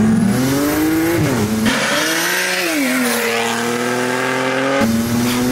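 Single-turbo BMW N54 straight-six running at about 29 psi of boost under full-throttle acceleration, its straight-piped exhaust rising in pitch with a sudden drop at a gear shift, then climbing again, with a faint high turbo whistle over it. It is heard partly from inside the cabin and partly from the roadside as the car pulls away.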